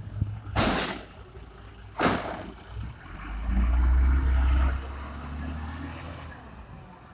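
Diesel engine of a 1995 WhiteGMC automated side-loader garbage truck running, with two short bursts of air hiss, one about half a second in and one about two seconds in. In the middle the engine revs up for about a second and settles back down.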